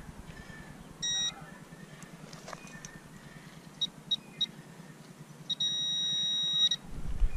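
High-pitched electronic beeps from metal-detecting gear signalling a target: one short beep about a second in, three quick beeps around four seconds, then a steady tone held for about a second near the end.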